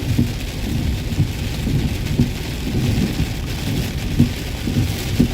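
Rain mixed with snow falling steadily as a continuous hiss, over a low rumble with frequent irregular dull thumps.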